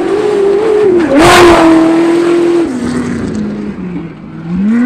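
Class 1 desert race buggy engine at high revs going past, with a short burst of noise about a second in. The engine pitch then steps down several times and climbs again near the end.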